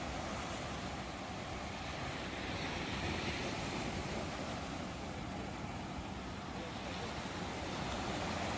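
Ocean waves washing on the shore in a steady, continuous rush, swelling slightly near the end.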